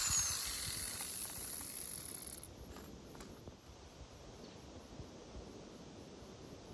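A power tool winding down: its noise fades away over the first two to three seconds, leaving a faint background.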